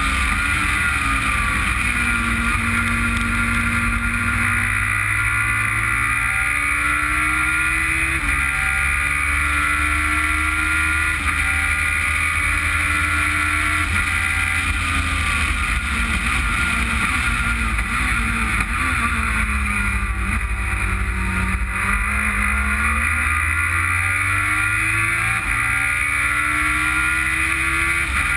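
Onboard sound of a car at speed on a race circuit. The engine revs climb and drop back several times as it shifts up through the gears, falls away around two-thirds of the way in as the car slows, then climbs again, over a steady rush of wind and road noise.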